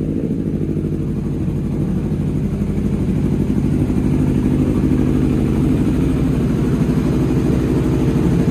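Honda CB1100F's air-cooled inline-four engine idling steadily with an even pulse, growing slightly louder over the seconds.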